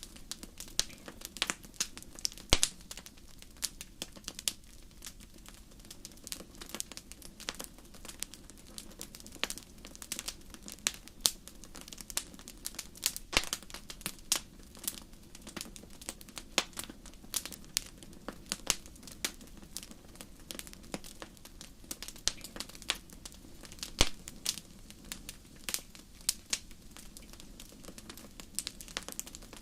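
Wood fire crackling in a fireplace: a soft steady hiss with irregular sharp crackles and occasional louder pops.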